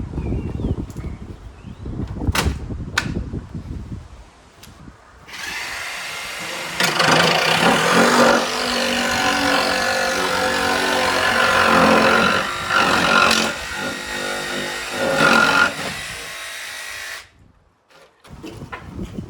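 Wind buffeting the microphone with a few sharp knocks, then a power tool runs steadily for about twelve seconds and cuts off suddenly.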